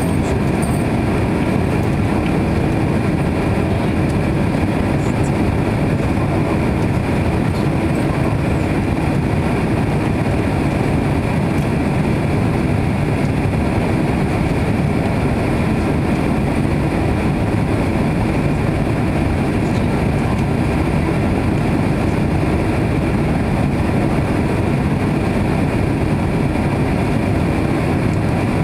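Steady, loud rumble of a Boeing 767-300's engines and airframe, heard from inside the passenger cabin.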